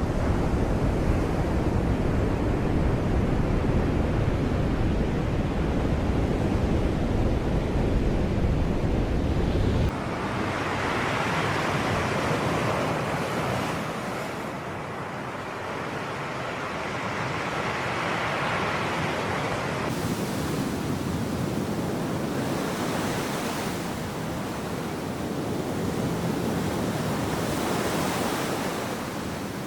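Sea waves washing onto a shore, with a heavy low rumble of wind on the microphone for the first ten seconds. After an abrupt change, the surf swells and fades about every five seconds.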